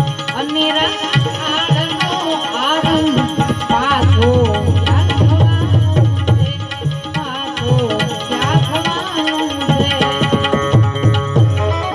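Instrumental interlude of a Gujarati santvani bhajan: tabla playing a steady rhythm, its bass drum strokes gliding in pitch, over sustained melody accompaniment.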